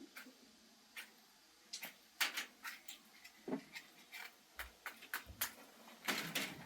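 Scattered light knocks and clicks, a dozen or so at uneven intervals, with a couple of dull low thumps past the middle.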